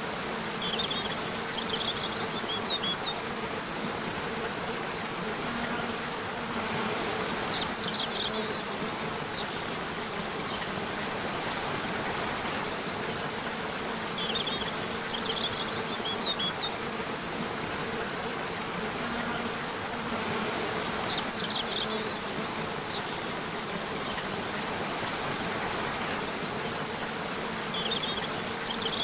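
Nature soundscape: a steady wash of running water under a low, even insect buzz, with short clusters of high chirps coming back about every six to seven seconds.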